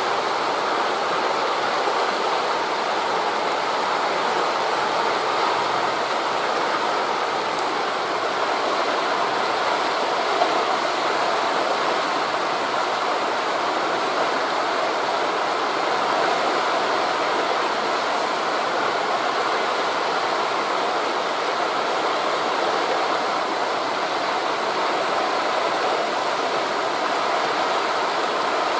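Steady rushing ambience of wind through forest leaves mixed with sea waves on a beach, an even noise with no distinct wave swells.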